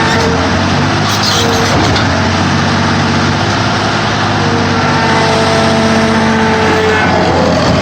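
Sierra 4200 scrap-car baler running under load: its engine and hydraulics make a steady, loud drone, with hum-like tones that shift pitch a few times as the press works.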